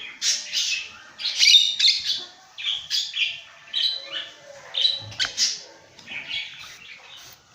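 Pet lovebirds calling in a run of harsh, loud squawks and chirps, about eight bursts of calls in quick succession.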